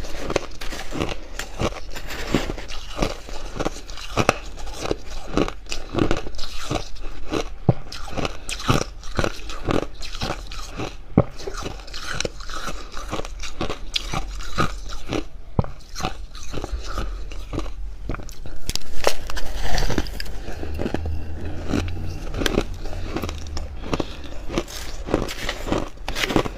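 Close-miked biting and chewing of crunchy, fluffy freezer frost: rapid dry crunches, several a second, throughout.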